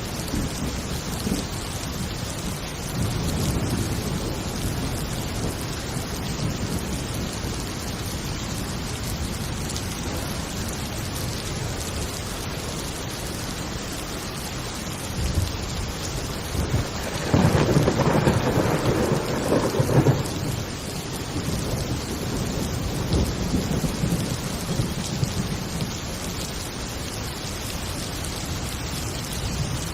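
Thunderstorm: heavy rain falling steadily with low rolling thunder. A louder thunder crash comes a little past the middle and rumbles on for a few seconds.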